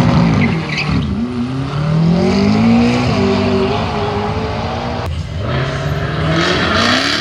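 Sports car engines revving hard under full acceleration, the pitch climbing through each gear and dropping back at every shift. A fresh run of rising revs starts about five seconds in.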